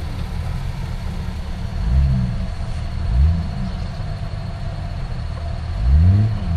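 Old Jeep Cherokee's engine running with a steady low rumble, revved up and back down three times in short bursts: about two seconds in, a second later, and near the end. The Jeep is stuck in mud, lacking a front locker to pull it through.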